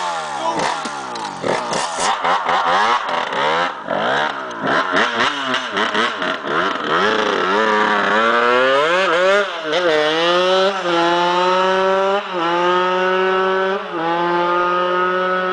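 Dirt bike engine revved in quick repeated throttle blips for the first several seconds, then pulling away under acceleration, its pitch climbing and dropping back at each gear change every second or two.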